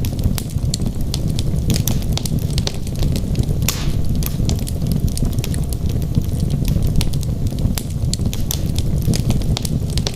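Wood fire burning in a fireplace: a steady low rumble of flame under frequent sharp, irregular crackles and pops from the burning logs.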